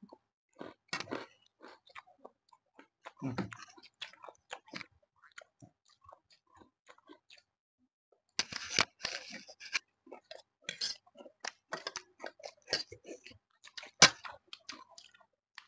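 Close-miked chewing and crunching of food, a run of irregular crisp bites and mouth noises, with a denser flurry of crunching about eight seconds in.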